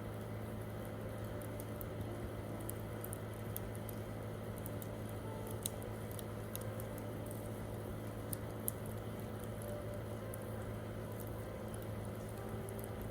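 Wood campfire crackling, with many small snaps and a few louder pops over a steady low rush of the burning fire.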